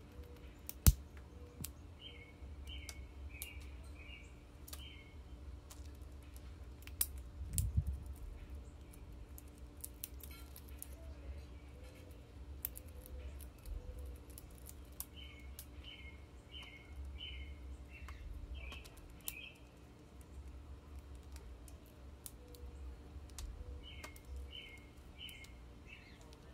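Small songbird singing runs of five or six repeated short slurred notes, three runs in all. Between them come scattered sharp clicks of a common grackle's bill cracking sunflower seeds on a plastic platform feeder, over a low rumble, with one loud knock about a second in.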